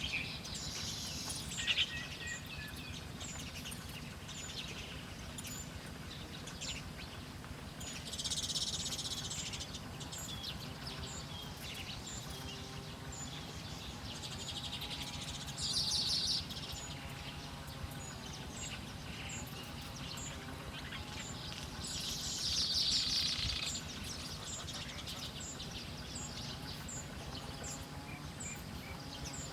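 Wild birds chirping against steady outdoor background noise, with a high-pitched tick repeating about twice a second throughout. Three louder spells of buzzy chirping, each lasting a second or two, stand out.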